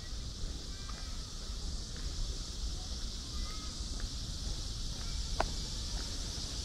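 Outdoor park ambience: short bird chirps and calls scattered over a steady high hiss and a low rumble, the sharpest call about five seconds in.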